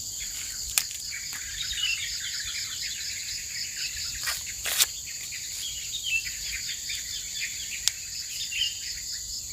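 Forest insects droning steadily in a high pitch, some pulsing evenly, with birds chirping now and then. A few sharp clicks break in: one about a second in, a pair around four to five seconds, and one near the end.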